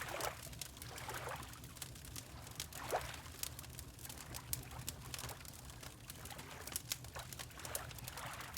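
Water lapping in gentle washes, three swells in all: at the start, about three seconds in and near the end. Under it a wood fire crackles with many small pops, over a low steady rumble.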